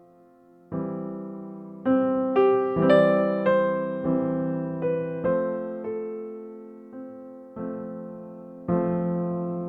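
Soft background music on electric piano: single notes and chords struck one after another, each fading away slowly.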